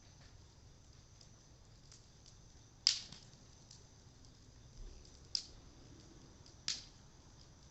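Cedar wood fire crackling, with a few sharp pops, the loudest about three seconds in and others near five and seven seconds.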